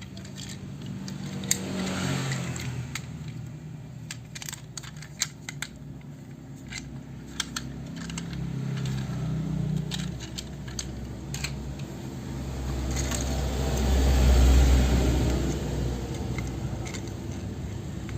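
Plastic toy parts clicking and rattling as they are handled, scattered sharp clicks over a low background. A low rumble swells up a little past the middle and fades again.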